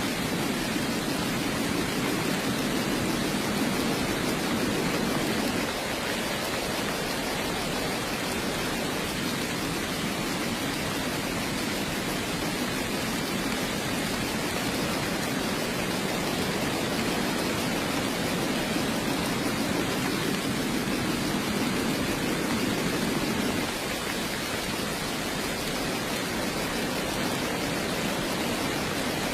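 Steady heavy rain, an even hiss. A deeper layer in the sound is stronger at first, drops away about six seconds in, swells again about two-thirds of the way through and drops back near the end.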